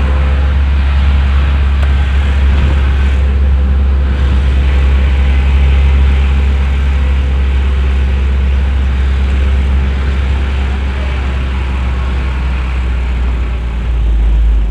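Tow truck driving along, a steady low engine and road rumble.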